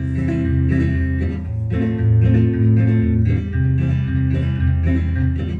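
Acoustic guitar strumming a steady folk accompaniment with a strong bass line, no singing.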